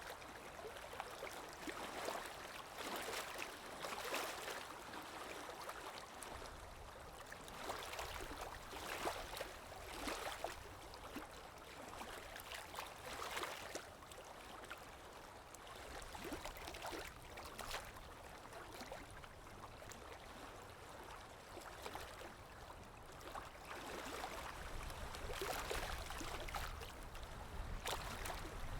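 Water lapping with wind: a steady wash with small irregular splashes every second or two, and a low wind rumble that swells near the end.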